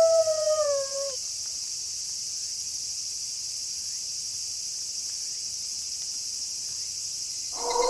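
A wolf's howl slides down in pitch and ends about a second in. A steady chorus of crickets then fills the night, and another howl begins near the end.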